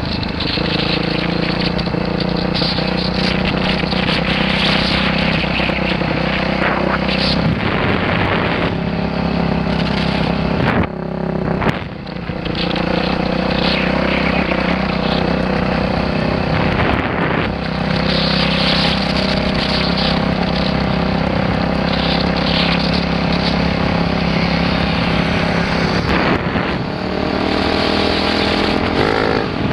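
Dirt bike engine running steadily under load, easing off briefly about eleven seconds in and then pulling again.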